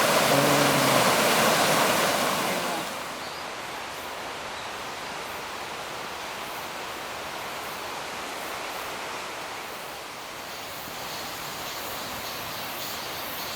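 Hongryu Falls, a mountain waterfall, rushing steadily; the rush is louder for about the first three seconds, then drops to a softer level. Cicadas buzz faintly behind it.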